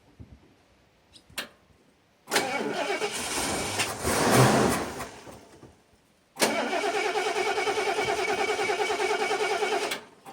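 The Ford motorhome's engine being cranked by its starter on starting fluid after two years of sitting, in two tries of about three seconds each, the second with a steady even chugging. It does not catch and run.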